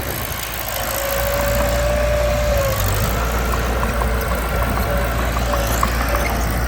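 Mitsubishi BD2 small bulldozer's diesel engine running steadily, with a thin steady whine for about two seconds starting about a second in.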